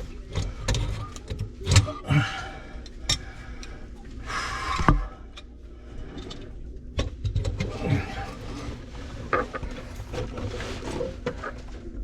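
Scattered knocks, clicks and a short scrape of hand work on a vessel sink's push-button pop-up drain.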